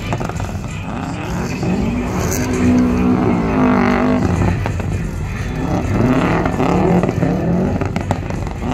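Drift car's engine revving up and down repeatedly as it drives around the drift course, its pitch rising and falling several times.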